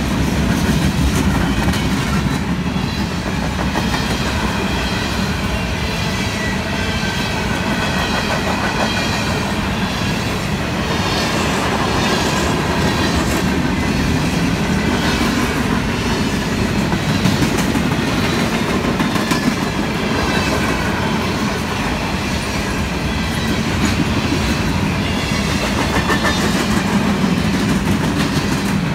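CN freight train's covered hopper cars rolling past close by: a steady rumble with the clickety-clack of wheels over the rail joints, and faint high wavering squeals from the wheels.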